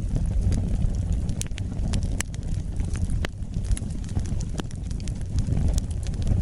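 Wood fire burning: a steady low rumble of flames with sharp, irregular crackles and pops from the burning wood, about a dozen scattered through.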